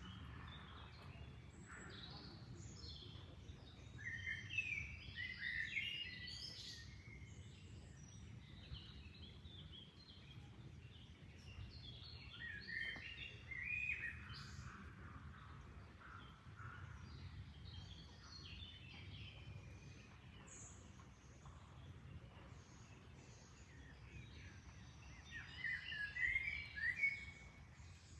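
Small birds chirping in scattered clusters, busiest about five seconds in, around thirteen seconds and near the end, over a steady low rush of water.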